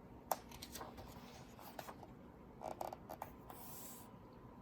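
Faint handling of a book's paper pages as a page is turned: a few light clicks and taps, then a soft rustle and swish of paper about three seconds in.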